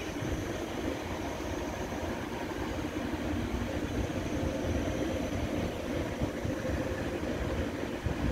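Deutsche Bahn ICE train rolling past, a steady rumble of wheels and cars on the rails.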